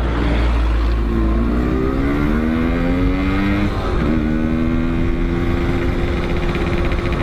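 Motorcycle engine heard from the rider's seat, accelerating hard: the pitch rises for a few seconds, drops suddenly about four seconds in at a gear change, then pulls steadily again in the next gear, over steady wind rumble.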